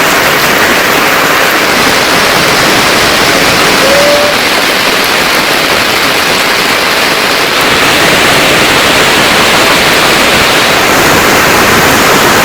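Heavy monsoon rain falling as a dense, steady hiss.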